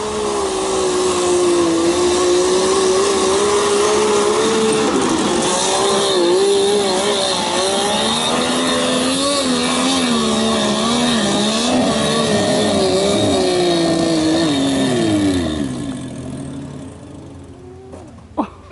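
Small off-road 4x4's engine labouring under load up a steep dirt climb, its pitch wavering as the throttle is worked. About 15 seconds in the pitch sweeps down and the engine dies: it stalls on the climb.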